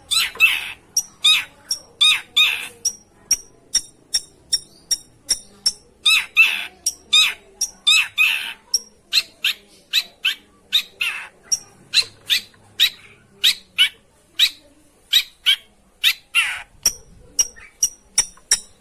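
Long-tailed shrike (pentet) calling in a rapid series of short, harsh, scratchy notes, about two to three a second, broken now and then by louder, longer rasping calls. This is a lure recording used to provoke a silent shrike into calling.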